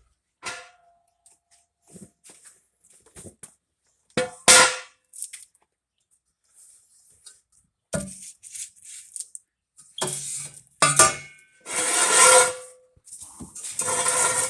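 Metal clanking and knocking from work on car exhaust parts: scattered sharp knocks, a few of them ringing briefly. The loudest hit comes about four and a half seconds in. Longer scraping and rattling stretches follow in the second half.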